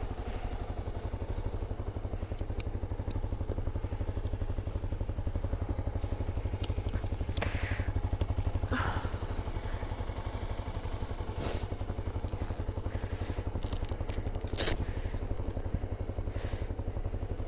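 Honda dual-sport motorcycle idling to warm up on a cold morning, a steady rapid low pulsing, with scattered small clatters and rustles of gear being handled over it.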